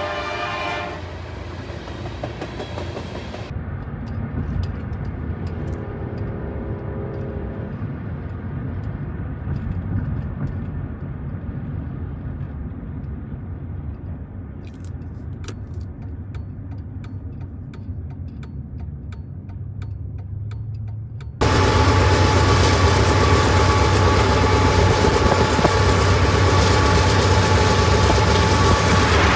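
Train sounds cut together: the tail of a train horn blast fades out in the first second. Then comes a steady low rumble of a train, with a faint horn note briefly in the middle. About three-quarters of the way through it cuts abruptly to a much louder, steady diesel locomotive running close by.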